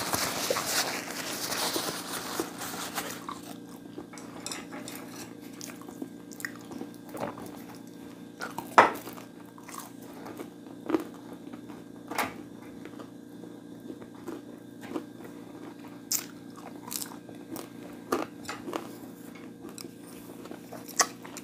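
Close-up chewing and crunching of food, with dense crunching in the first few seconds and then scattered sharp crunches every second or two. A steady low hum runs underneath.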